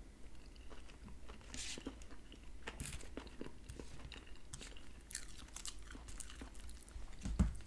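Close-miked chewing and mouth sounds of a man eating baked salmon with onions: small wet smacks and clicks, with a fork cutting and scraping on the plate. A soft low thump near the end is the loudest sound.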